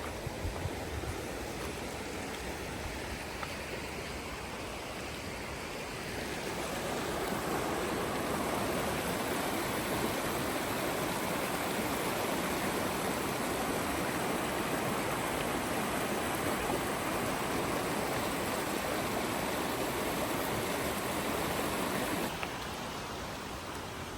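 Steady rushing of running water, swelling about six seconds in and dropping off suddenly about two seconds before the end.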